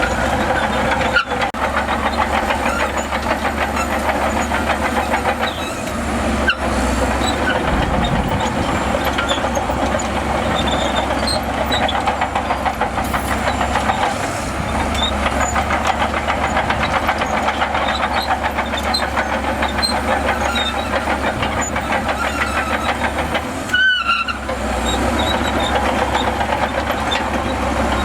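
Crawler bulldozer working: its diesel engine runs steadily under load beneath a continuous clatter of steel tracks, with short high squeaks.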